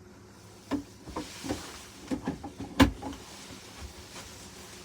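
A series of knocks and clicks from handling coffee-making gear while setting a filter in place, the loudest, deepest knock just under three seconds in.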